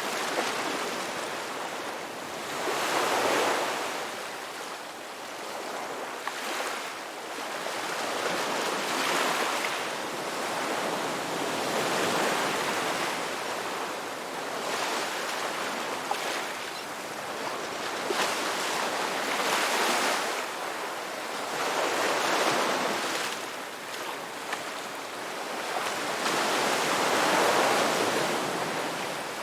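Ocean surf breaking and washing up a beach: a continuous rushing hiss that swells and ebbs with each wave, about every three to four seconds.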